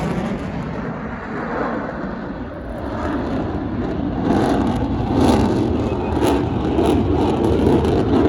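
Jet fighter engine roar just after a fast low pass. It fades over the first couple of seconds, then swells again with a rough crackle from about three seconds in.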